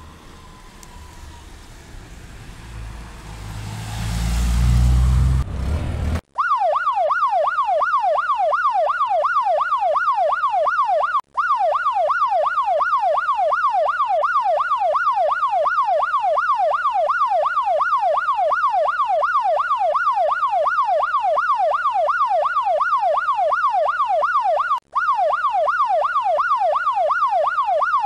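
A car engine revs up over the first six seconds, then a police siren takes over in a fast yelp, sweeping up and down two to three times a second. The siren cuts out briefly twice.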